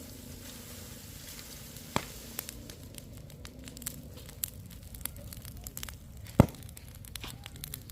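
Scattered sharp clicks and light knocks over a low steady background hum, with two louder knocks about two seconds in and near the end.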